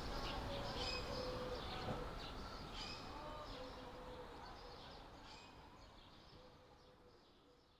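Birds chirping over a steady background hiss, the whole sound fading out gradually.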